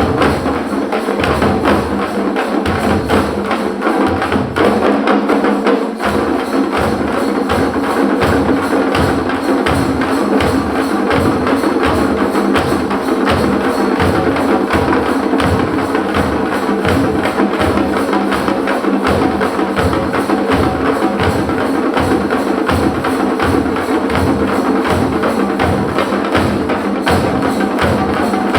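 Parai frame drums, played with two sticks by a drumming ensemble: a fast, steady rhythm of sharp strokes over a regular low beat.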